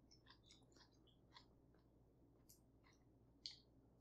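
Faint chewing with scattered small clicks of metal chopsticks picking through a stainless steel hot pot, and one sharper click near the end.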